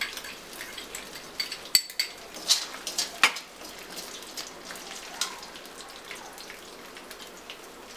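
Chopped ginger and garlic sizzling in hot ghee in a black kadai. A metal spoon clinks sharply several times against a small bowl and the pan as the garlic is scraped in and stirred, mostly in the first few seconds, over a steady sizzle.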